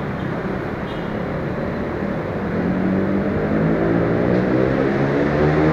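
A train running through the station, a steady mechanical drone. About halfway through, a pitched engine or motor hum comes in, shifts in pitch and grows louder.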